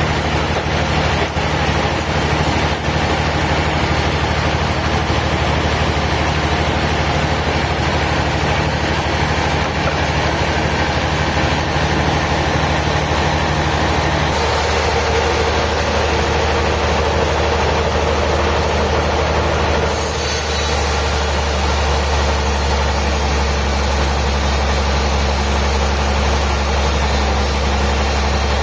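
Sawmill machinery running steadily with a deep engine hum. Its tone shifts about halfway through and again about two-thirds of the way in.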